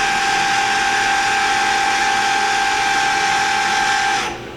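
Live-tooling spindle on the turret of a Kia SKT-15LMS CNC turning center running free at 2500 RPM, a steady high whine over a hiss. It cuts off about four seconds in.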